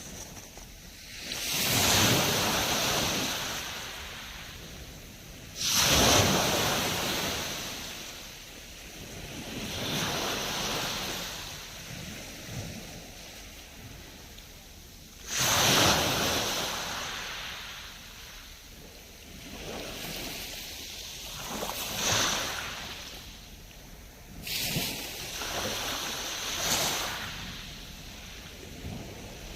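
Sea waves breaking on the shore, one after another. The biggest come in suddenly about six, fifteen and twenty-four seconds in, and each washes out over several seconds.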